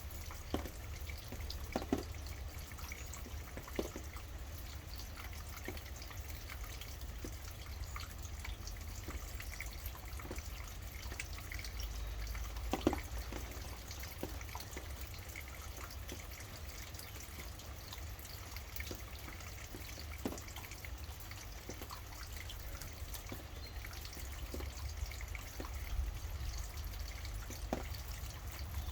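Steady rain with scattered single drops dripping and tapping close by, the loudest about halfway through, over a steady low rumble.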